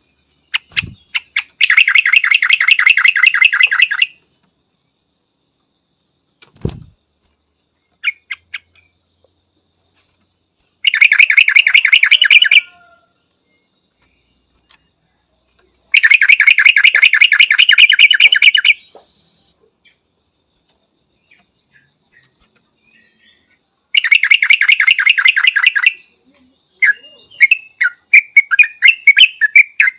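Yellow-vented bulbul calling: four loud bouts of rapid rattling chatter, each two to three seconds long and roughly ten notes a second, with a looser run of separate notes near the end. Two brief low thumps fall between the first calls.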